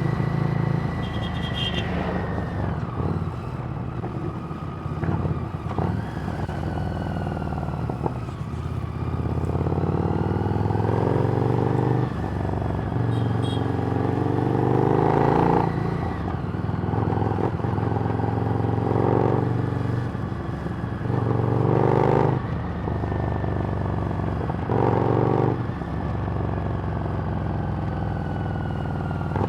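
Harley-Davidson Street Rod's 750 cc V-twin running through a Screamin' Eagle exhaust while riding. The revs rise and fall repeatedly, with several louder surges as the throttle opens and then rolls off between them.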